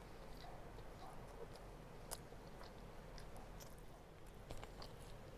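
A person chewing a mouthful of rice and chicken, with soft wet mouth clicks scattered through it. A sharper click comes about two seconds in, and a small cluster of clicks near the end.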